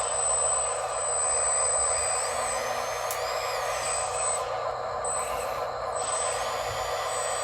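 Small electric motors and gearing of radio-controlled construction models running steadily as a whine of many fine tones. A thin high tone cuts in and out, and there are brief pitch glides about three and five seconds in.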